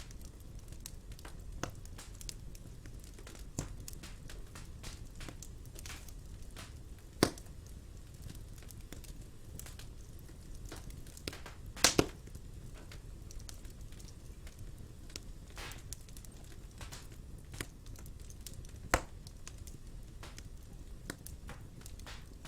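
Wood fire burning in a fireplace: a steady low rumble with irregular crackles and sharp pops, the loudest a double pop about halfway through.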